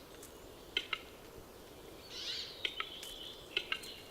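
Western capercaillie males displaying at a lek: sharp dry clicks in pairs, repeated about once a second, with a short rasping burst about two seconds in.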